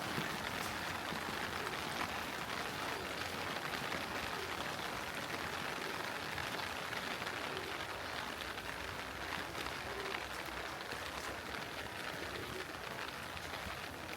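Steady heavy rain falling, an even hiss dotted with the patter of individual drops.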